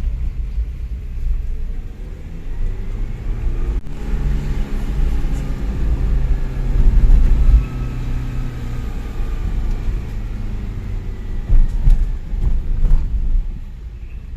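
Motor vehicle engine running over a heavy low rumble. Its note climbs about four seconds in and falls away again by about eleven seconds, with a few sharp knocks near the end.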